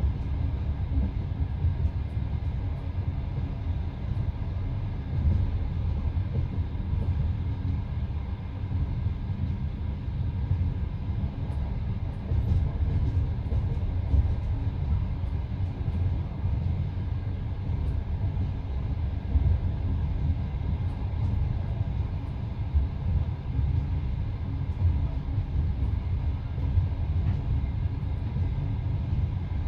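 Passenger train running at speed heard from inside a carriage: a steady low rumble with the clatter of the wheels over the rail joints.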